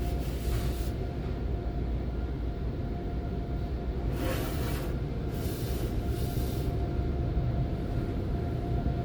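PECO car wash tunnel equipment running with a steady low rumble and a faint constant hum. Short hissing sprays cut in just after the start, about four seconds in, and again from about five to six and a half seconds.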